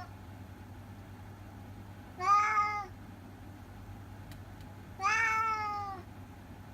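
Orange tabby cat meowing twice: a short meow about two seconds in, then a longer one with a rising-then-falling pitch about five seconds in.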